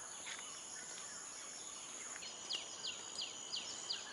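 Steady high insect drone in mangrove wetland, with a bird calling a quick run of five short downward-slurred notes about two and a half seconds in.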